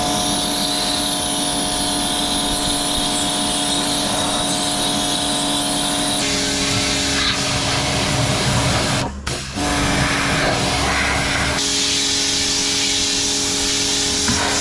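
Electric pressure washer running, its motor humming steadily under the hiss of the water jet striking a dirty surface. The spray cuts out briefly about nine seconds in, and its hiss changes about six and twelve seconds in as the jet moves to other surfaces.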